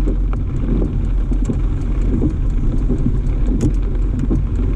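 Car driving, a steady low road and engine rumble heard from inside the cabin, with scattered light ticks of rain hitting the car.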